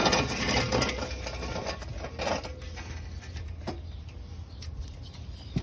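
Rustling and scraping of hands working through a net and foliage, loudest in the first second, with another brief rustle a little after two seconds and a few sharp taps later on.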